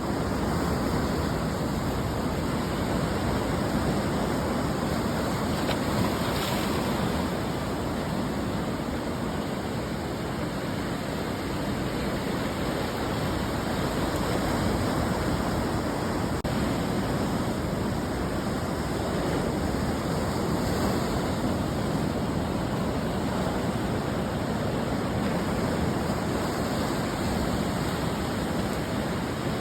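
Ocean surf washing onto the shore: a steady rushing noise that gently swells and eases as the waves come in.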